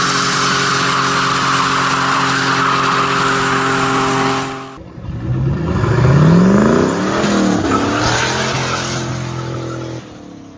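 Turbocharged 5.2-litre Magnum V8 in a Dodge Dakota held at steady high revs with a loud hiss. After a sudden break about five seconds in, it revs up in rising sweeps with a faint high whistle, then drops away near the end.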